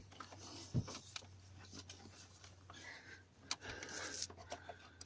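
Faint handling sounds in a car's engine bay, hands moving hoses and parts: scattered small clicks and rustles with a light knock about a second in, over a low steady hum.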